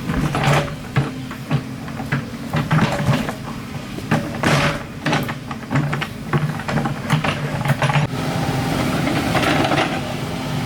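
Excavator engine running steadily under irregular clanks and knocks, several in most seconds, of metal working against earth and rock.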